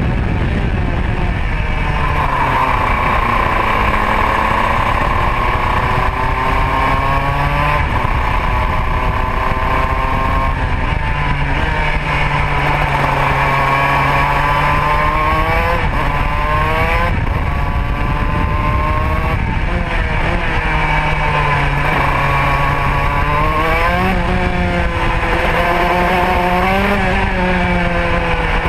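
Racing kart's Modena two-stroke engine running hard on track, its note rising and falling over and over as the kart accelerates and slows through the corners, over a steady rush of noise.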